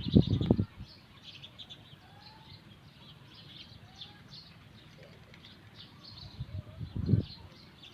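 Small birds chirping steadily in quick high notes, with a few softer sliding calls lower down. Two louder low rumbles stand out, one at the very start and one about seven seconds in.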